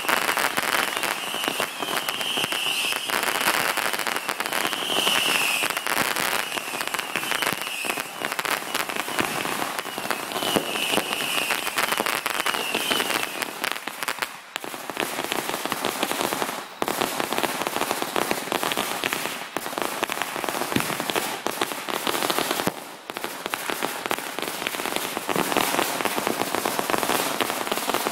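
Fireworks and firecrackers going off in a dense, continuous crackle of rapid pops. A high whistling tone comes and goes during the first half.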